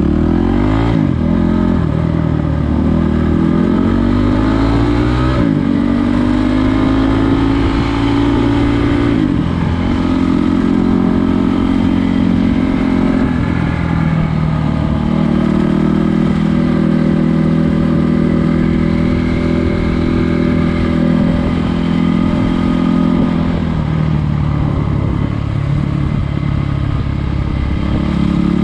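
Trail motorcycle engine running under way. Its pitch climbs, drops back sharply and climbs again several times as the revs change, then holds fairly steady for long stretches.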